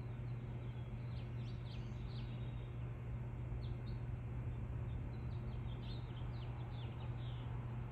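Birds chirping: many short, high chirps, each dropping quickly in pitch, coming in irregular bunches. A steady low hum runs underneath.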